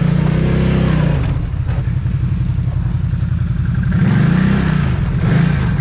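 Off-road vehicle engine revving hard, its pitch climbing and dropping twice: once near the start and again about four seconds in.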